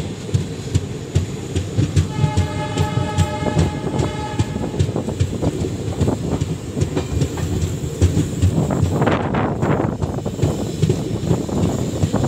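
Indian Railways express train running at speed, heard from on board, with the rumble and clatter of wheels on the rails. A train horn sounds one steady blast from about two seconds in, lasting about three seconds.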